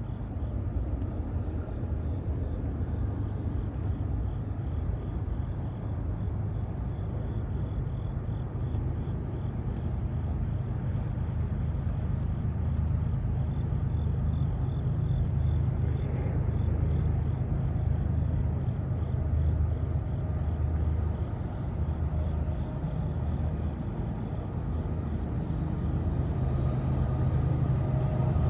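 Steady low rumble of a large passing vehicle that holds for the whole stretch, with a faint rapid pulsing higher up during the first half.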